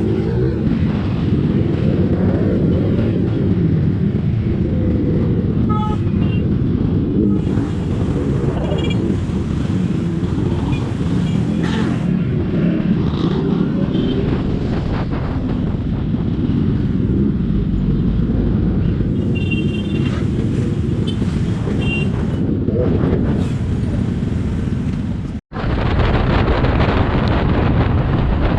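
Wind buffeting the microphone of a moving motorcycle, a steady low rumble with engine and traffic noise under it. The sound cuts out for an instant about 25 seconds in.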